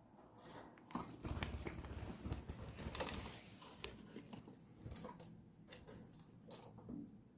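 Budgerigars pecking and shuffling: scattered sharp clicks and rustling, densest and loudest between about one and three seconds in.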